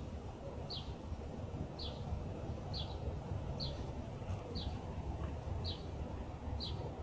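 A bird chirping over and over, one short high chirp about every second, over a steady low background rumble.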